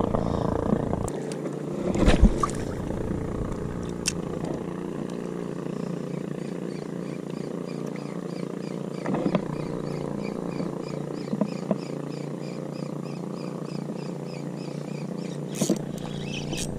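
Steady low outdoor drone with a few light knocks. Through the second half it carries a faint run of quick, evenly spaced high chirps.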